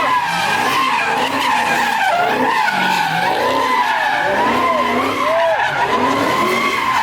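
Car tires squealing continuously as a car drifts, the squeal wavering in pitch, with the engine revving up and down underneath.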